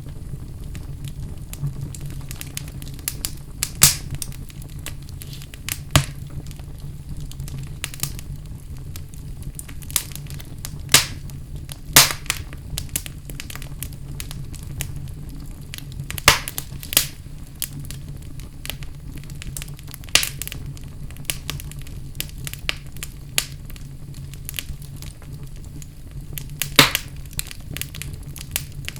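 Wood fire burning in a fireplace: a steady low rumble of flames with irregular crackles and sharp pops of burning logs.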